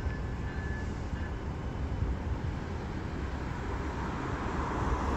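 Low, steady rumble of a Brightline train's diesel locomotive at the station platform, mixed with outdoor traffic noise. A rushing noise swells near the end.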